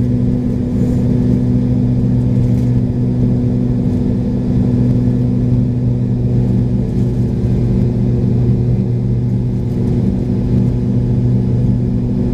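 Cabin of a McDonnell Douglas MD-83 from a seat near its tail-mounted Pratt & Whitney JT8D turbofans: a loud, steady engine drone with a low, even hum that does not change.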